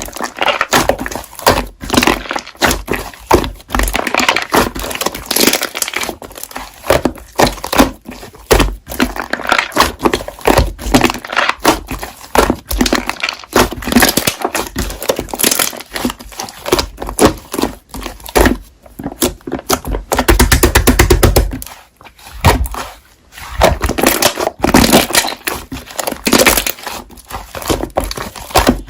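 Slime being squeezed, pressed and poked by hand, giving dense crackling, popping and squelching clicks, with a fast even run of clicks about two-thirds of the way through.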